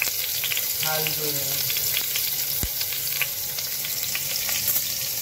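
Sliced shallots, garlic and curry leaves sizzling in hot sesame oil in an aluminium pot, a steady crackle with many small pops. A single low knock about two and a half seconds in.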